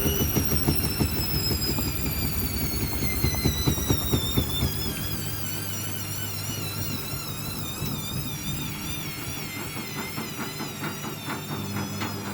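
Hoover washing machine's drum motor whining as the drum slows. The pitch falls steadily over the first four seconds or so, then wavers up and down. Underneath there is rapid clatter and a steady low hum.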